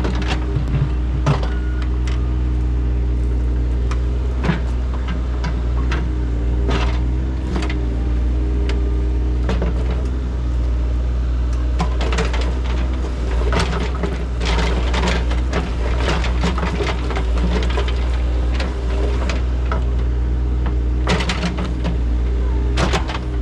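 Engine of a heavy digging machine running steadily, with repeated clanks, knocks and scrapes from work in soil and stone. The knocks come thickest about halfway through and again near the end.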